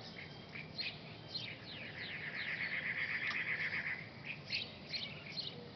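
Birds chirping in short high notes, with a quick run of falling notes and then a fast, even trill lasting about two seconds near the middle.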